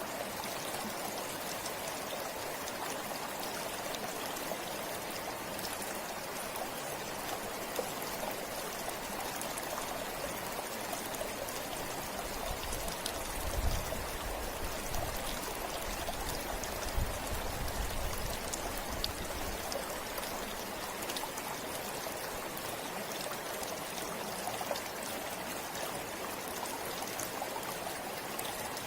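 River flowing steadily, an even rush of water. About halfway through, a low rumble comes and goes for several seconds.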